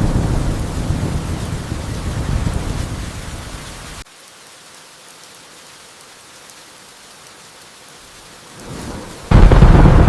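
Thunder rumbling over steady rain; the rumble cuts off abruptly about four seconds in, leaving only the rain's hiss. Near the end, a sudden loud thunderclap breaks in and rumbles on.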